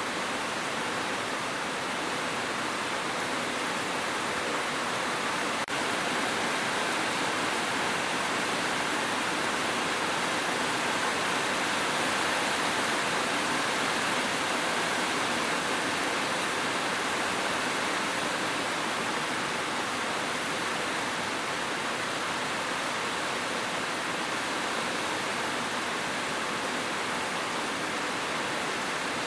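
Steady, even hiss of heavy rain, with one faint click about six seconds in.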